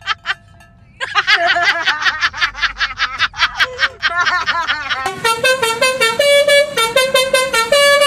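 Basuri telolet bus horn playing a tune. After a short pause, about a second in, it sounds a fast run of quick chirping notes, then a string of longer notes stepping up and down in pitch.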